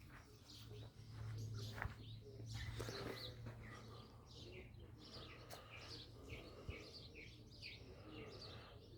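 Faint birds chirping, a run of short repeated chirps, over a low steady hum.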